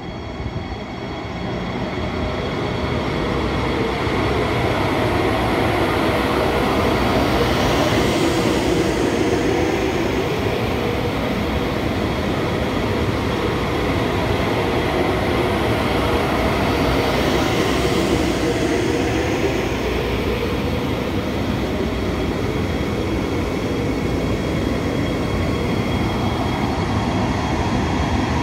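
A train hauled by two coupled Taiwan Railway electric locomotives, E547 and E548, pulling out of a station and going by, with steady wheel-on-rail and running noise. It builds over the first few seconds, then holds loud, with two hissing swells about 8 and 18 seconds in.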